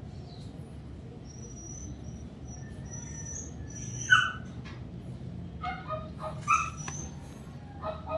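A dog whimpering and yelping in short calls, the loudest about four seconds in and several more close together near the end, over a steady low hum.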